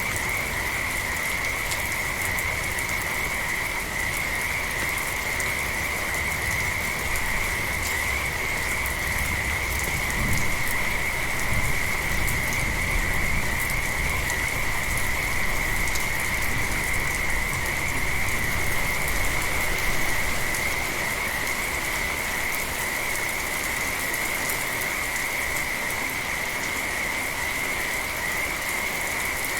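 A frog chorus calling steadily in one continuous high-pitched band, over the even hiss of steady rain. A low rumble swells in for about ten seconds in the middle, then fades.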